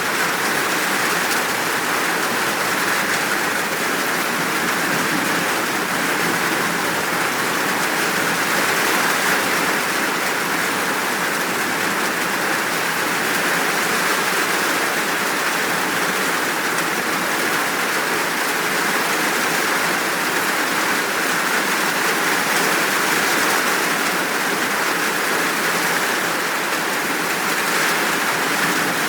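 Steady rain falling in an even, unbroken downpour.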